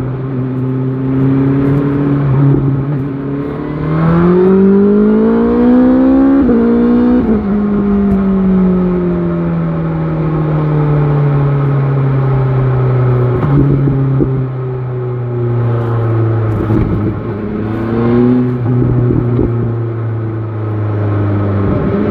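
BMW XR motorcycle engine running under a rider. It accelerates with rising revs about four seconds in, changes gear with a sudden drop in pitch, then winds down slowly and settles into steady low revs.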